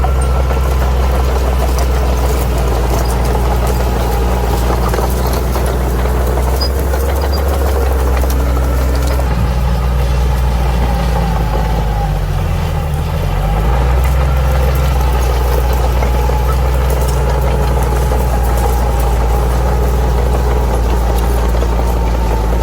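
Bulldozer's diesel engine running steadily. Its pitch dips briefly about halfway through, then picks back up.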